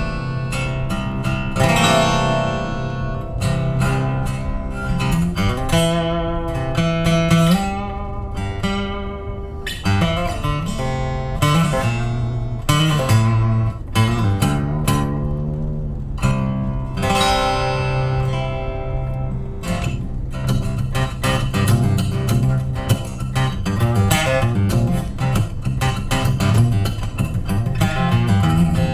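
Solo guitar playing the instrumental introduction to a song, a mix of picked notes and strummed chords.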